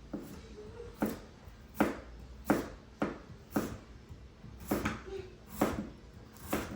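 A series of sharp knocks, about one every three-quarters of a second, in an even rhythm.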